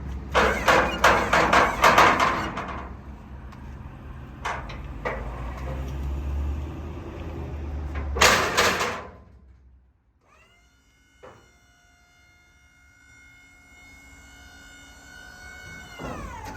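Metal box-truck rear door being worked, with a rattling clatter of knocks, two more knocks and a loud bang. After that a steady whine holds, then winds down near the end.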